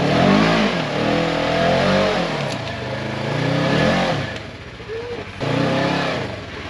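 Small machine's engine revving up and down, its pitch rising and falling about four times with a short lull near the middle.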